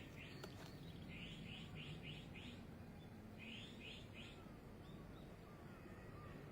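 Faint bird chirping: a quick run of about five short chirps, then three more a couple of seconds later, over a low background hum.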